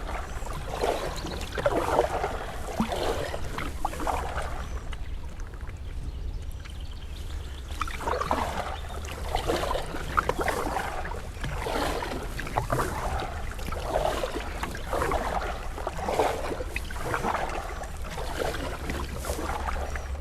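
Canoe paddle strokes: the blade dipping and pulling through the water in soft swishes about once a second, with a short pause of a few seconds early on while the canoe glides. A steady low rumble of wind on the microphone sits under it.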